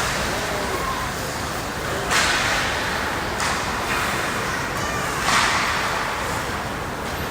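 Ice hockey skates scraping and cutting on the ice: four short hissing scrapes, over the steady noise of the rink.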